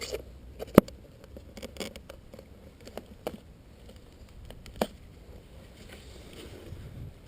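Scattered small clicks and knocks of hands working on a model glider while its balance is being adjusted, with one sharp click about a second in and another near five seconds.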